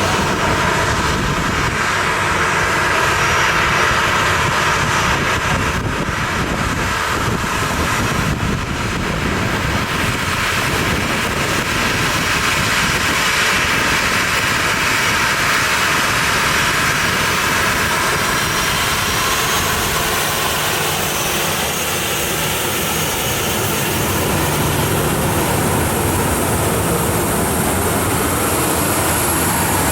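Jet airliner engines running loud and steady.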